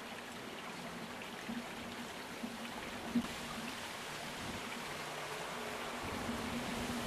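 Distant approaching diesel freight train: a steady rushing noise with a faint low hum that grows louder near the end.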